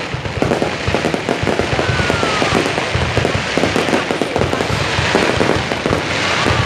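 Fireworks display: a dense, continuous barrage of bangs and crackles, with a brief falling whistle about two seconds in.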